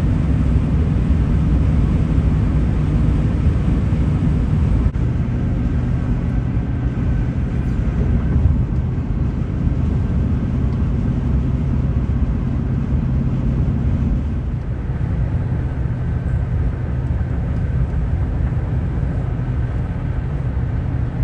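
Steady low rumble of a moving vehicle's engine and road noise, with an abrupt jump about five seconds in.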